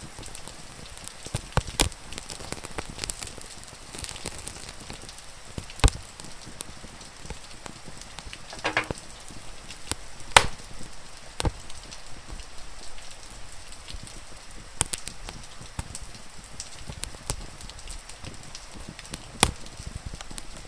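Wood fire crackling, with irregular sharp pops and snaps, over a steady hiss of rain. A short pitched squeak sounds about halfway through.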